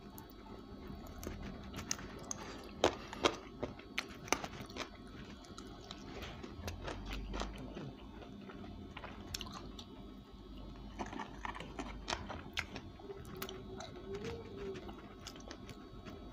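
A person biting and chewing crispy spicy fried chicken close to the microphone. The crunches come as sharp crackles in little clusters, the loudest a few seconds in.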